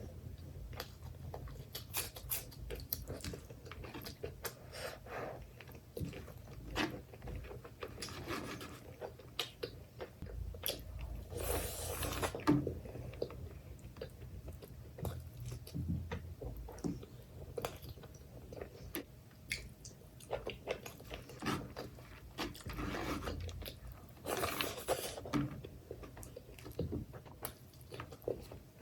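Close-miked eating of mutton curry with rice and onion: steady chewing and biting with wet mouth clicks and crunches, and two longer, louder noisy stretches, one before the middle and one near the end.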